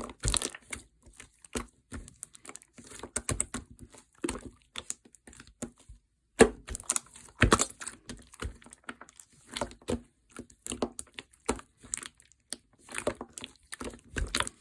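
Slime being squished, stretched and poked by hand, making irregular crackling clicks and pops with short pauses.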